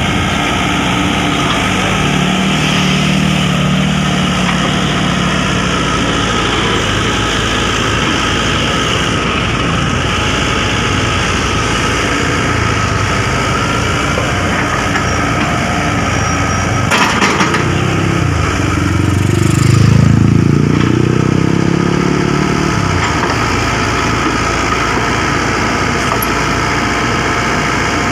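Heavy earthmoving machinery's diesel engine running steadily and revving up twice, with the second, louder rev rising and falling away. A brief rattle of clanks comes just before the second rev.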